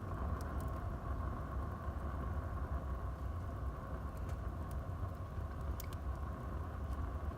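Wood fire burning in a fireplace: a steady low rush of flame with scattered sharp crackles and pops of the burning wood, about half a dozen of them.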